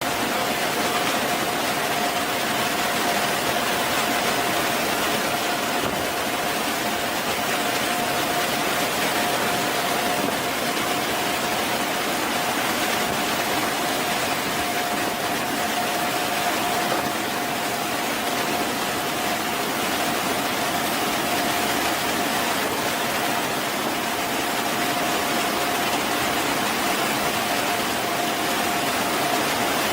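Sukhoi Su-57 jet engines running steadily: a constant roar with a single steady whine over it, unchanging throughout.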